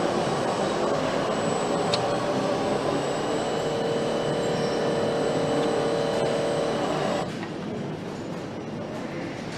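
Factory machinery running: a steady mechanical din with a thin high whine and, midway, a held droning tone. It cuts off suddenly about seven seconds in, leaving quieter background noise.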